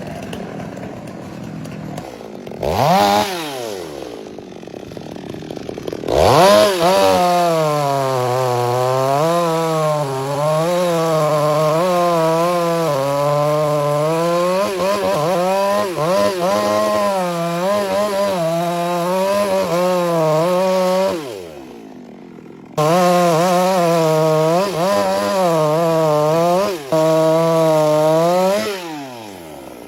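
Chainsaw idling, blipped once about three seconds in, then held at full throttle for about fifteen seconds with its pitch dipping and recovering as it cuts wood. It drops back to idle briefly, runs at full throttle again for about six seconds, and falls back to idle near the end.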